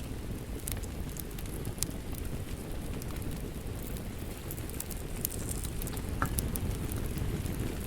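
Wood fire crackling, with scattered sharp pops, over a steady rushing rain.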